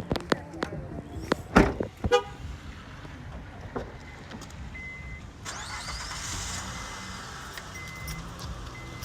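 Car sounds: a few sharp knocks and a loud thump in the first two seconds, then the car running steadily, with a few short high beeps.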